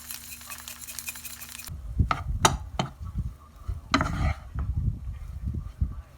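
Kitchen cooking sounds: a hiss with many small clinks and a low steady hum, then, after a sudden change, a few sharp knocks and low thuds of utensils and cookware being handled.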